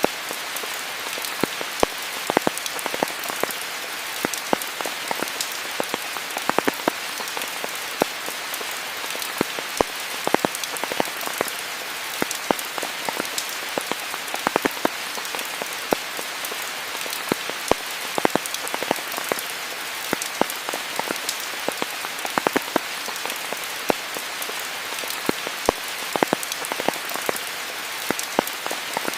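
Steady rain falling, a continuous hiss with many individual drops pattering and striking close by at irregular moments.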